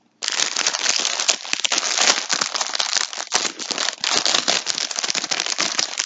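Packaging crinkling and crackling continuously as yarn skeins are handled and unwrapped.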